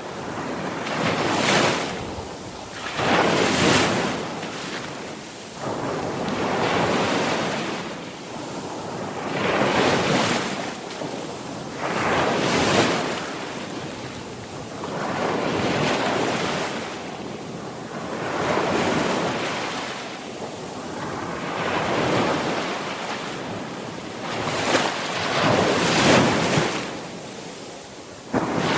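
Sea waves breaking on a shore, each surge of surf swelling and washing back every two or three seconds.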